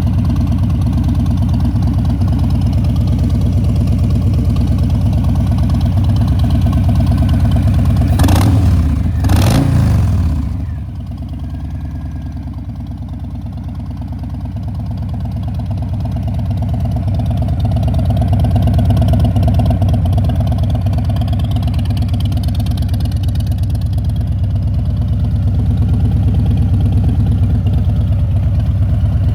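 Harley-Davidson Fat Boy's 1745 cc Milwaukee-Eight 107 V-twin idling, with two quick throttle blips in a row about eight and nine seconds in before it settles back to a steady idle.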